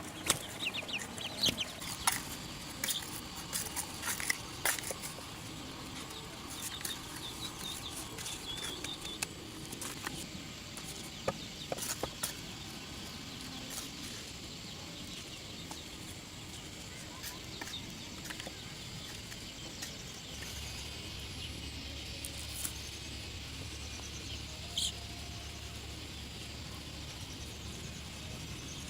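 Chickens clucking, with scattered sharp taps and knocks through the first half. A low steady rumble comes in about two-thirds of the way through.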